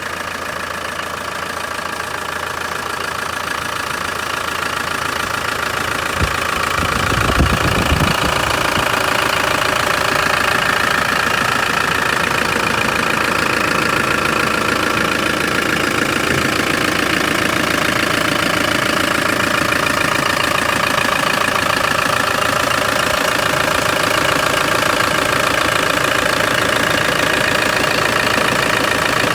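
Brand-new Land Rover 300Tdi 2.5-litre four-cylinder turbodiesel running steadily. It grows louder over the first several seconds, with a few short low thumps about seven seconds in.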